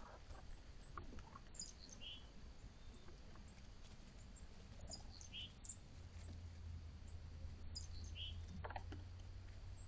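Faint wild birds chirping: short single chirps about every three seconds, with smaller high notes between and light scattered ticks and rustles, over a low steady hum.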